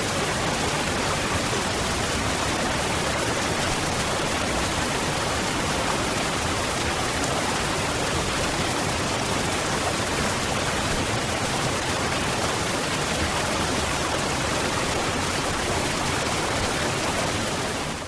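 Waterfall: a steady, even rush of falling water, which fades out right at the end.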